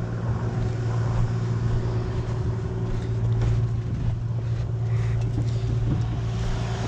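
Engine running steadily, a low, even hum that does not change pitch.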